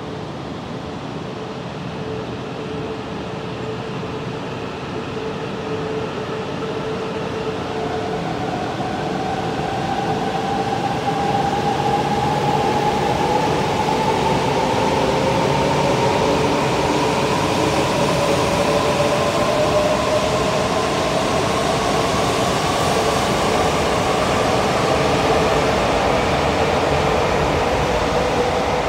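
E4 series Max double-decker Shinkansen pulling out and accelerating. A steady hum gives way, about eight seconds in, to the traction motors' whine, which rises slowly in pitch over a growing rumble of wheels on rail, then holds loud.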